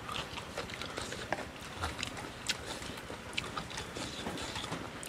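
A man chewing frog curry close to the microphone: small, irregular crunching clicks of frog meat and bone over a faint steady hiss.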